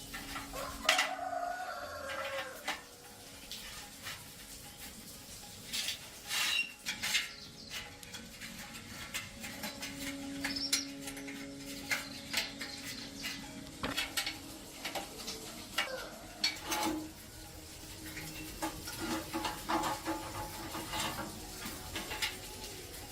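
Irregular clinks and taps of metal tools and small metal parts being handled during hand work on a chainsaw, with a short falling squeal about a second in.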